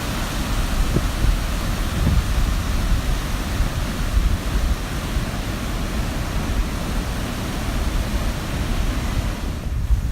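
Heavy surf breaking and washing, stirred up by an approaching hurricane, with strong wind buffeting the microphone: a steady rushing noise with a deep rumble.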